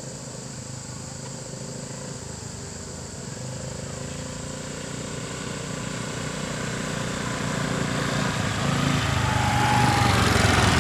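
A motor vehicle's engine running with a steady hum that grows steadily louder through the second half.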